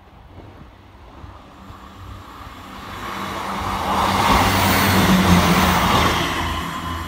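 ScotRail Class 158 diesel multiple unit approaching and passing at speed. The rush of its wheels and engine swells to its loudest about four to six seconds in, then fades as it draws away.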